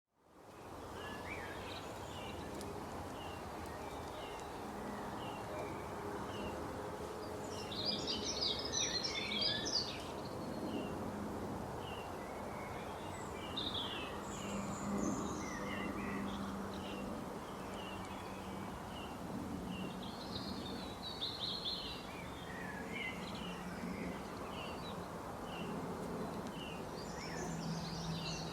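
Wild songbirds chirping over a steady background hum: short chirps repeat about once a second, with busier bursts of twittering several times.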